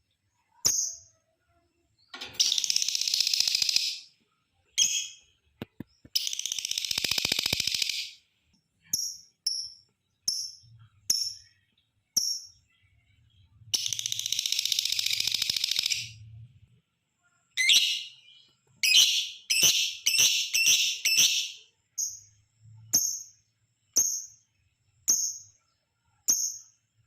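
Lovebird calling: short, sharp, high chirps repeated every second or so, broken by three long rapid chattering trills (the 'ngekek panjang') of about two seconds each, and a quick run of chirps about two-thirds of the way in.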